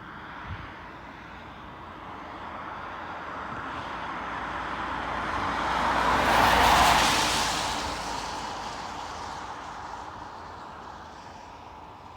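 Airliner passing by: its engine noise swells steadily, peaks about halfway through, then fades away.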